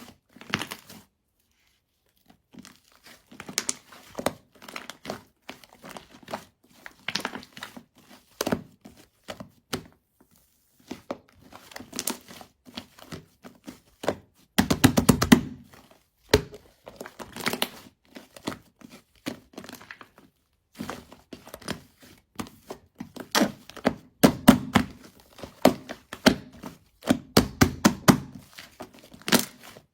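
Chocolate whipped-cream slime being squished and poked by hand: irregular sticky clicks, crackles and soft thunks, with a brief pause about a second in and a denser run of crackling about halfway through.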